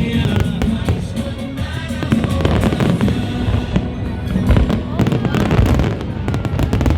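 Fireworks going off in rapid, frequent bangs and crackles, over music and voices.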